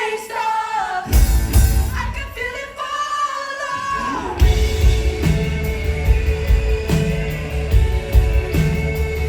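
Live pop-rock performance: a singer's wavering, held vocal line over sparse accompaniment, then about four and a half seconds in the full band with drums comes in on a steady beat.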